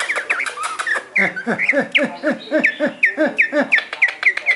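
Male greater green leafbird singing: a fast, rhythmic series of repeated down-slurred notes, about three a second, with quick clicking notes mixed in at the start.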